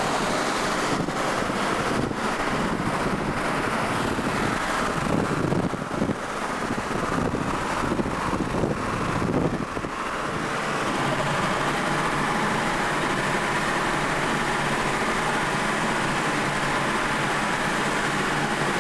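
Steady noise of a running motor vehicle with wind on the microphone, uneven and gusty for about the first ten seconds, then settling to an even hiss.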